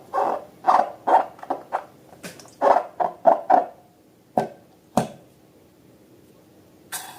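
A quick run of short squeaky, squelching sounds from handling rubber balloons and slime, about two to three a second, followed by two sharp clicks and, near the end, a brief hiss.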